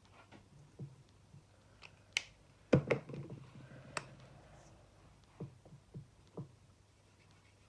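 Small sharp clicks and taps from handling alcohol-based blending markers, with a louder clatter of several knocks about three seconds in and a few single clicks after.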